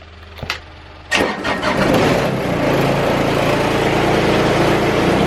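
A vehicle engine starts about a second in and then runs steadily, most likely a cold start of a machine used for snow clearing.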